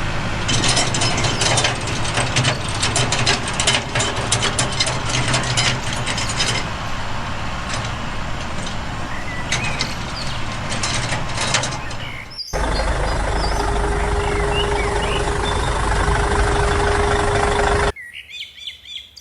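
A homemade miniature tractor's small motor runs steadily for about twelve seconds, with a constant clatter of sharp clicks from its parts. After a sudden cut comes a louder, even mechanical noise with a steady whine, which stops abruptly near the end and gives way to birds chirping.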